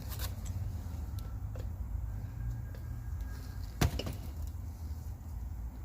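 Metal parts being handled on a cylinder head: a few faint clicks and one sharp click about four seconds in as a camshaft bearing cap and its bolts are set in place, over a steady low hum.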